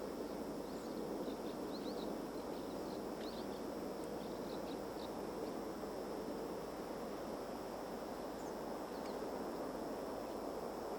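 Outdoor ambience: a steady low background rumble, with short high bird chirps at intervals, most of them in the first half.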